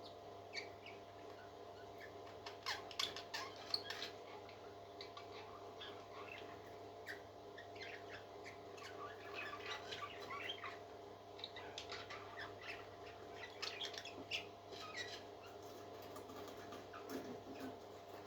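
Faint, high squeaks and cheeps of a hatching parrot chick, coming in irregular clusters, over a steady electrical hum.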